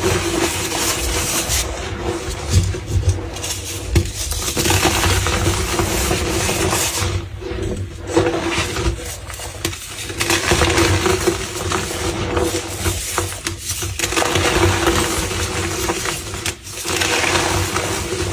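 Dry, brittle crumbly material being crunched and crushed, in several long stretches of dense crackling with short breaks between.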